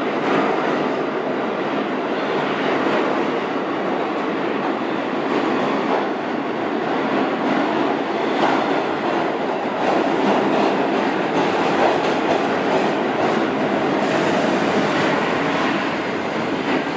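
Pullman-Standard R46 subway train running along the platform, a steady loud rumble with a few sharp clicks from the wheels passing over the rail joints.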